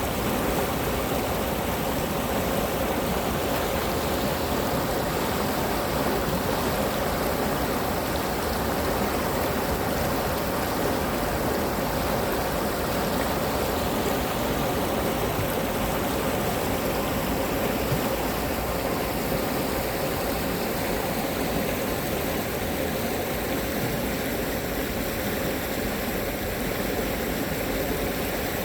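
Cheonggyecheon's flowing water after rain: a steady, unbroken rush of the stream.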